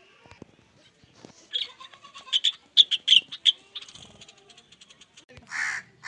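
Birds calling: a quick run of loud, short, sharp notes, then two longer, noisier calls about two-thirds of a second apart near the end.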